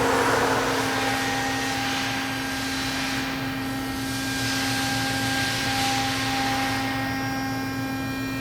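A machine running with a steady hum, and a rushing noise that swells and fades a few times.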